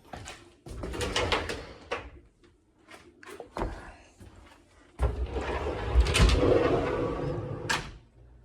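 Storage doors and drawers in a hotel room being opened and closed: two sliding, rumbling runs, the second longer, and a couple of sharp knocks as they stop or shut.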